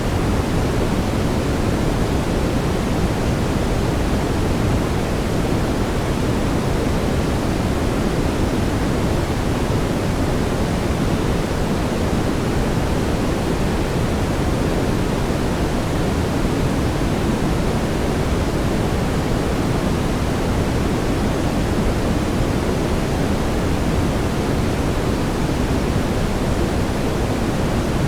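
Brown noise: a steady, even rushing hiss weighted toward the low end, with no changes or events.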